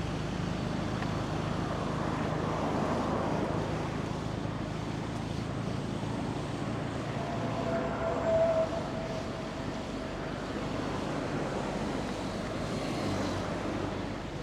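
Steady street traffic noise: a vehicle engine hums low, and a brief high tone rises over it about eight seconds in.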